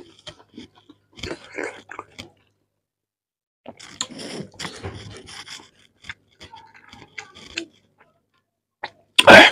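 Close-up eating sounds of a man eating chicken curry and rice by hand: wet chewing and mouth clicks in short bouts, with his fingers working the rice on the plate. Near the end, one loud short smack or crunch is the loudest sound.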